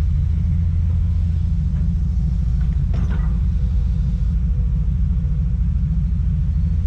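Heavy diesel engine of earthmoving equipment running steadily, a deep pulsing rumble, with a brief sharp noise about three seconds in.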